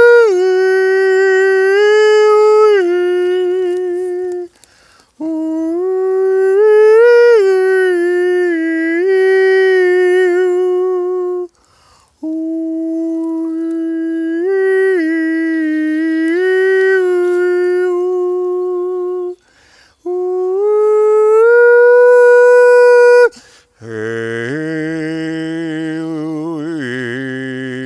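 A man singing without audible words, long held, gliding notes in phrases of several seconds with short breaths between them. From about 24 s in, the voice drops into a deeper drone with several pitches sounding at once, chant-like.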